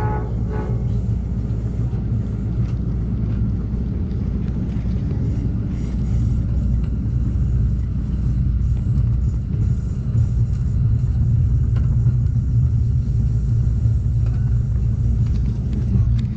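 Amtrak Cascades passenger train running along the track, heard from on board: a steady low rumble with a few faint clicks.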